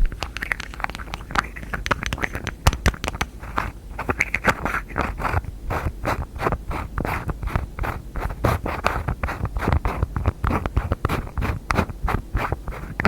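Fast, irregular finger tapping and scratching on hard objects such as container lids, several taps a second with scratchy rubbing between them.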